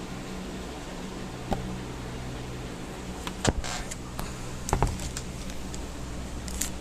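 Electric hot-stapler plastic welder humming steadily while its trigger is held to heat a staple into cracked plastic, with a few sharp clicks about a second and a half, three and a half and five seconds in.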